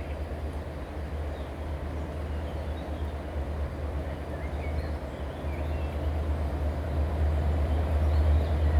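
Approaching passenger train: a low rumble growing steadily louder, with faint bird chirps over it.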